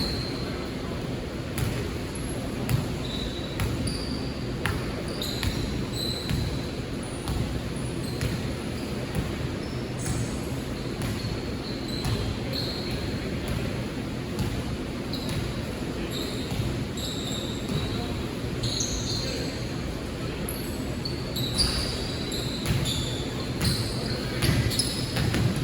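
Basketball game on an indoor court: the ball bouncing and sneakers squeaking on the floor, many short squeaks that grow busier near the end, over a steady murmur of players' and spectators' voices.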